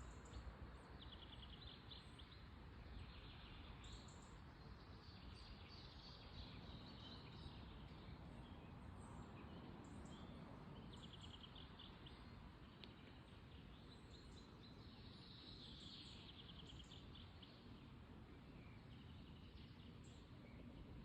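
Faint birdsong: short, rapid trills repeated every few seconds, with brief high chirps between them, over a steady background hiss.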